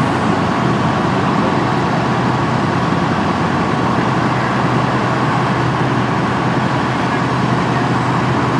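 Steady road-vehicle noise: engines running and traffic passing, with a constant hum and no breaks or sudden sounds.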